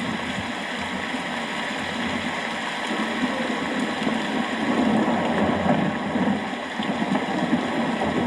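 Steady rain falling, with a low rumble underneath that swells about halfway through.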